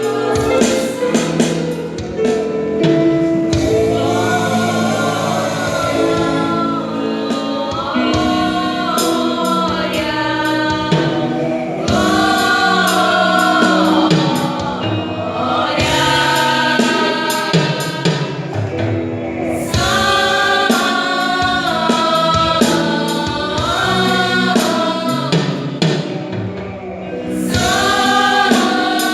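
Gospel vocal group singing a song in several harmonised voices, with instrumental backing.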